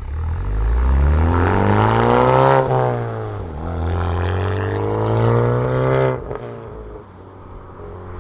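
Honda Civic Type R FK8's turbocharged four-cylinder through a Remus valved cat-back exhaust, accelerating hard. The note climbs, drops sharply at a quick upshift about two and a half seconds in, and climbs again. About six seconds in it cuts off as the throttle lifts, and settles to a lower, quieter, steady note.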